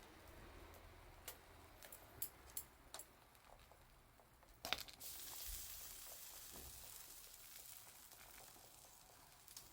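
Faint wood fire crackling: a few sharp, scattered pops, the loudest about halfway through, then a soft steady hiss from about five seconds in.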